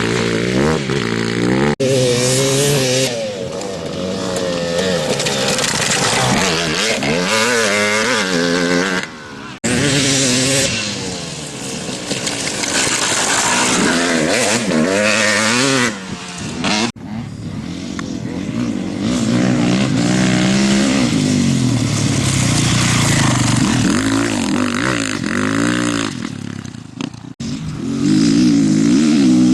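Racing motorcycle engines revving up and down, pitch climbing and dropping again and again as the bikes accelerate and shift. The sound breaks off abruptly four times where short clips are spliced together.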